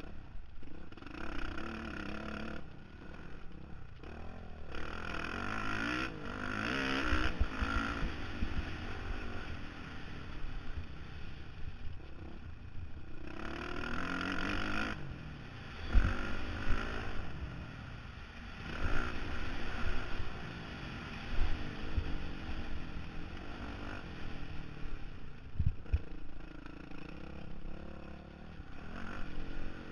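Honda CRF450R single-cylinder four-stroke motocross engine being ridden hard, its revs rising and falling again and again through the lap, heard from a helmet camera with wind rushing over the microphone. Several sharp low knocks come in the second half.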